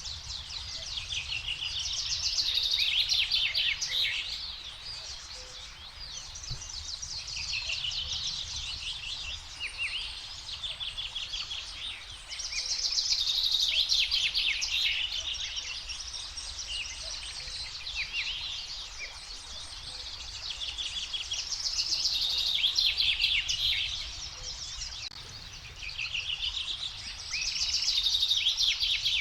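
Songbirds singing at dawn: fast trilling, chattering song phrases repeated every few seconds, some louder and closer than others, over a low steady rumble.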